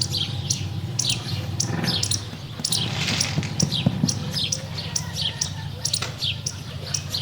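Small birds chirping busily: many short, quick downward chirps overlapping, several a second, over a steady low hum.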